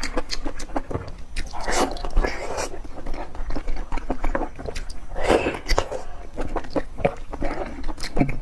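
Close-miked eating sounds: wet chewing and biting, with many small mouth clicks and a few longer, louder bursts.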